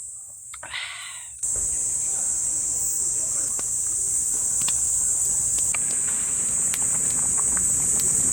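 Steady high-pitched chirring of a summer-evening insect chorus. About a second and a half in, it abruptly becomes louder over a fuller background with scattered clicks.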